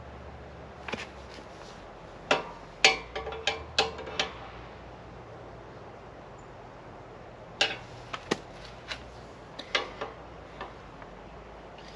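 Hard objects being handled: sharp clicks and knocks, some with a short ring, coming in two clusters, over a low steady hum.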